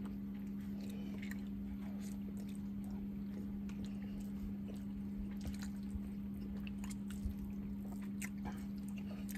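A man chewing a mouthful of pasta, with faint scattered clicks of a fork against a plate, over a steady low hum.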